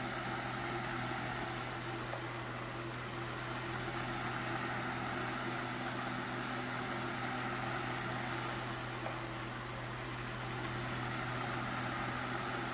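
Holmes Lil' Blizzard desk fan running on low speed while oscillating: a steady rush of air over a low motor hum, swelling and dipping slightly as the head swings back and forth.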